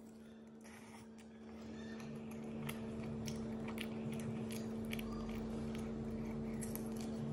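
Biting and chewing a fried chicken drumstick: a run of wet mouth clicks and crackles that gets louder about two seconds in, over a steady low hum.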